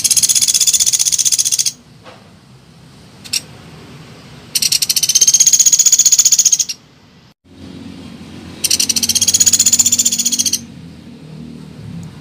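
Pelatuk beras woodpecker calling: three high, fast trills of about two seconds each, with a short single note between the first two.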